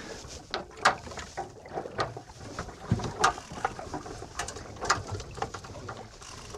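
Irregular splashes and sharp knocks of water at the side of a small boat, with a hooked fish brought up alongside.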